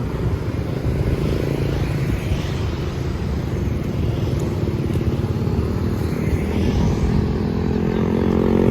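City street traffic, mostly motorbike engines running past. Near the end one engine grows louder.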